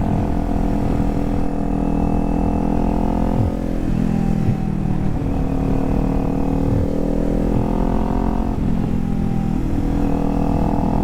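Kawasaki Z400's parallel-twin engine running while being ridden at a steady pace, with the engine note changing about four seconds in and again near the end as the throttle or gear changes.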